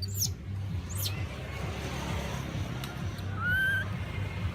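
Animal calls: two short, very high-pitched squeaky chirps in the first second, then a short rising call about three and a half seconds in, over a steady low background rumble.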